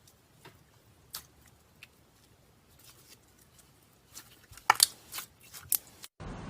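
Slime being played with by hand, giving scattered small clicks and pops, then a quick run of sharp crackling pops about four to five seconds in. Near the end the sound cuts out and a steady hiss begins.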